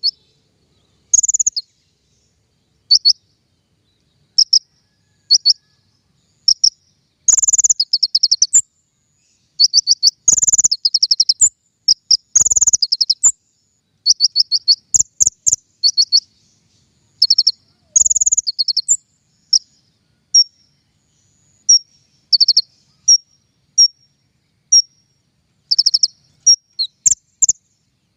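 Konin songbird calling: short, high chirps and quick trills of repeated notes, given in phrases with short pauses between them. It is the kind of call used to lure and train konin birds.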